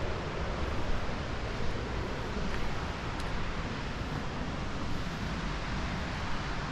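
Steady rushing noise with a low rumble underneath, even throughout.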